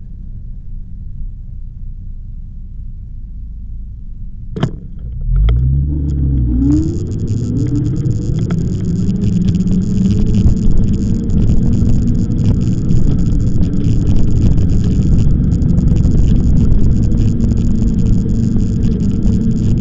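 Wind buffeting the microphone and road rumble while riding an e-bike. There is a click about four and a half seconds in, then a short rising whine, and from about seven seconds the rushing noise gets louder and steadier.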